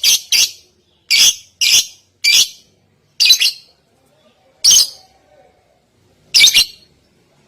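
A songbird's short, sharp chirps, loud and high-pitched, first in a quick run and then singly or in pairs at irregular gaps of about a second, growing sparser toward the end.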